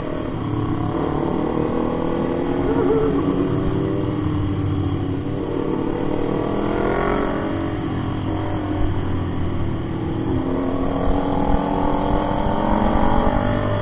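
Motorcycle engine running under way, its pitch rising and falling with the throttle, dipping about halfway through and climbing again.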